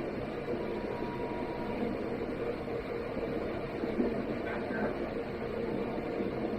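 Steady airliner cabin noise inside an Airbus A330-200: engine and airflow sound heard through the cabin, even and unbroken. There is a small knock about four seconds in.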